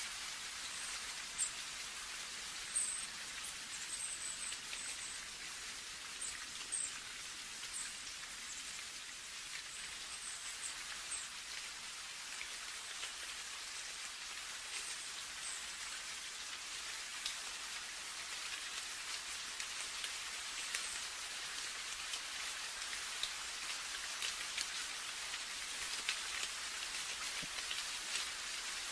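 Steady rain falling: an even hiss dotted with many sharp ticks of single drops.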